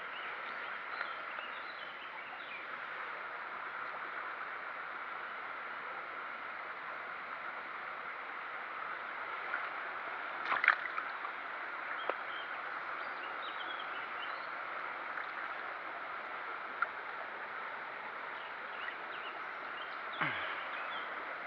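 Steady rush of running water, with a few faint high chirps over it. There is a sharp click about halfway through, and a brief falling sound near the end.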